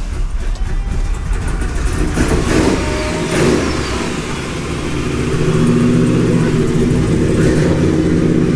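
A classic 1953 Chevrolet pickup's engine running just after being started, revving up about three seconds in and then settling into a louder, steadier run.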